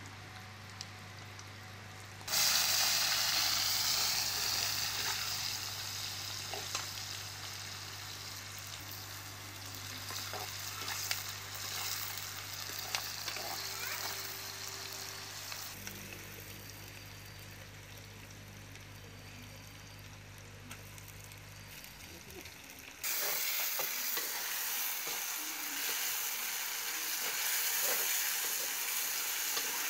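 Chopped onion and leaves frying in hot oil in a clay pot: a sudden loud sizzle as they go in, fading slowly while a metal spoon stirs and taps the pot. About 23 s in the sizzle flares up again as chopped tomato is added.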